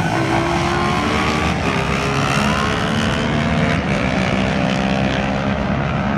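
Several ATV and dirt bike engines running together, their pitches rising and falling as the riders rev and pass by.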